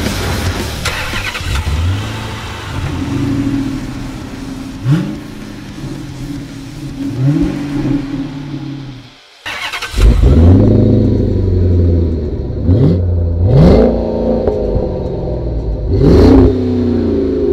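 Supercharged 5.7-litre HEMI V8 of a 2007 Dodge Magnum R/T revved in a series of sharp throttle blips, each a quick rise in pitch. There is a short break about nine seconds in, and the revs after it are louder.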